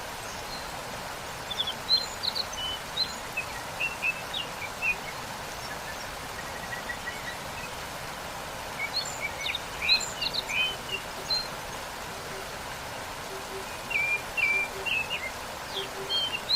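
Waterfall rushing steadily, with small birds chirping high over it in three short bouts.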